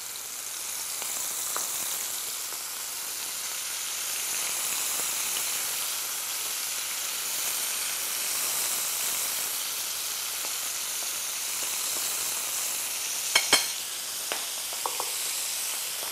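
Flour-dusted calamari rings frying in hot oil in a frying pan, a steady sizzling hiss. About thirteen seconds in come two sharp clicks, then a few lighter ticks.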